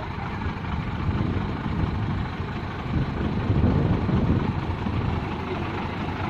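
Six-cylinder diesel engine of a heavy Hino truck running while the truck is bogged in mud, its level rising and falling a little.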